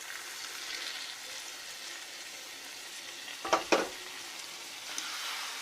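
Mutton frying with masala in a pot, a steady sizzle, with two sharp knocks about three and a half seconds in.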